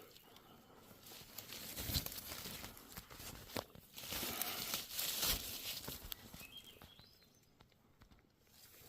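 Footsteps crunching and rustling through forest-floor debris and brush, in uneven bursts that fall quiet near the end.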